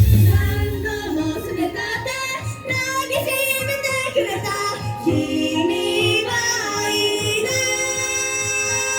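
J-pop idol song with a female singer's vocals over a backing track, in a quieter breakdown where the heavy bass and beat drop out about half a second in; the voice holds long sung notes.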